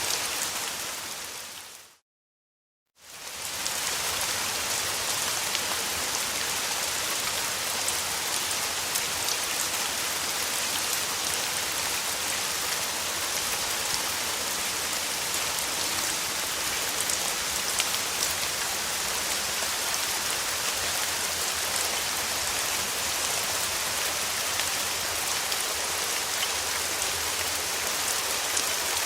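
Steady summer rain falling on a surface, a dense even patter. A moment in, it fades out to about a second of silence, then fades back in.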